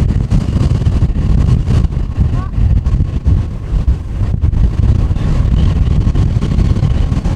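Strong gusty wind buffeting the microphone, a loud rumbling noise that rises and falls and largely drowns out an Airbus A320's jet engines, heard only as a faint steady whine beneath.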